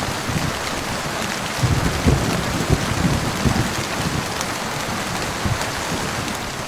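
Steady heavy rain hissing, with low thunder rumbling underneath, strongest in the first half.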